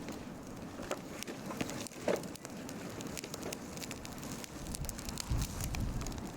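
Wood campfire crackling, with irregular sharp snaps and pops over a low hiss; a low rumble comes in about five seconds in.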